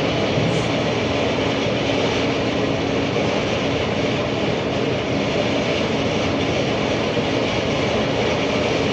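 Loud, steady machine noise with a low hum, unchanging throughout.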